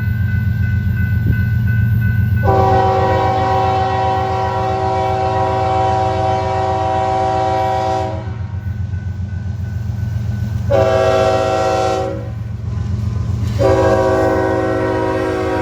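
Diesel freight locomotives rumbling steadily while the lead unit's multi-chime air horn sounds a long blast, a short blast about three seconds later, and another long blast that carries on to the end.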